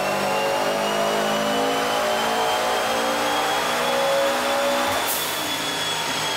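Subaru WRX STI's turbocharged flat-four running at full throttle on a chassis dyno, its revs climbing steadily, on a pull with the water-methanol injection working normally. About five seconds in the throttle closes with a short hiss of air and the engine note drops away, leaving a steady high whine.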